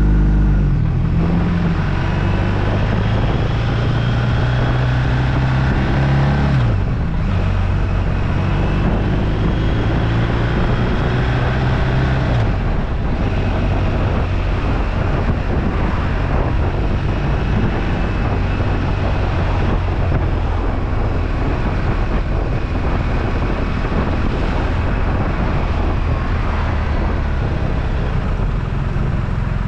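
BMW R1250RT's boxer-twin engine running steadily under way, with wind rushing over the microphone. The engine note shifts about seven seconds in and again near twelve seconds.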